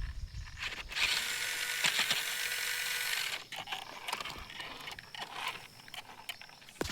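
Small geared toy motor whirring for about two seconds, then stopping, followed by scattered light clicks and ticks.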